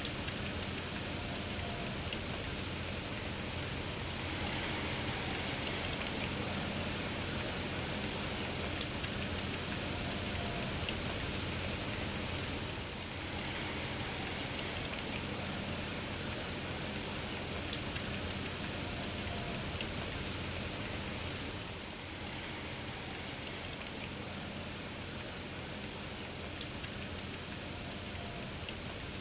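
Steady rain falling, with a single sharp click about every nine seconds.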